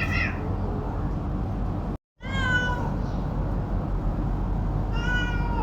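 A cat meowing: a short meow at the start, a longer meow falling in pitch a little after two seconds, and another meow near the end, over a steady low background noise.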